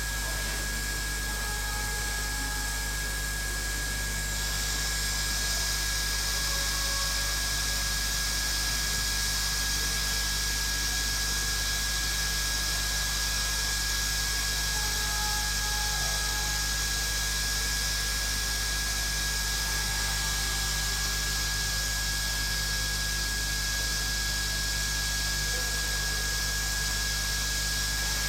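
Hot air rework station blowing a steady hiss from its straight nozzle, heating the underfill glue on a phone's logic board so it can be cut; the hiss grows louder about four seconds in. A thin steady high whine and a low hum run underneath.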